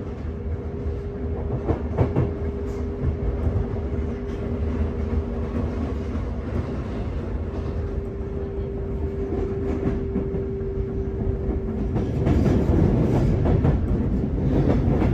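Sotetsu 8000-series electric train running, heard from inside a motor car: a steady hum with a held mid-pitched drive tone over wheel and rail noise. About twelve seconds in it gets louder and rougher, with wheels clattering over rail joints and points.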